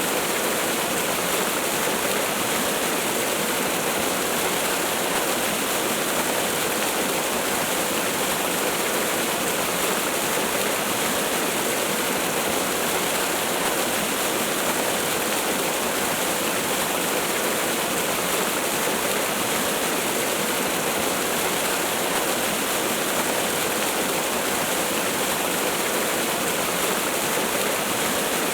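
Waterfall: a steady, unchanging rush of falling water with little low rumble.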